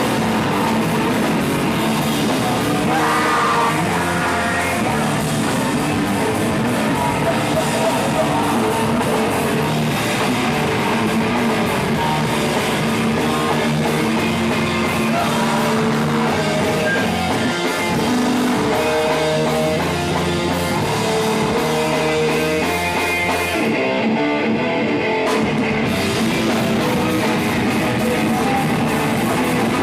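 Rock band playing live, loud and dense, with electric guitars, drum kit and singing. About three-quarters of the way through, the cymbals and bass drop out for a second or two before the full band comes back in.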